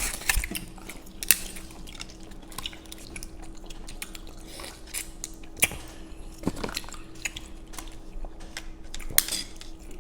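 Scattered sharp clicks and clinks of utensils against dishes, with chewing, a handful of times over a faint steady hum.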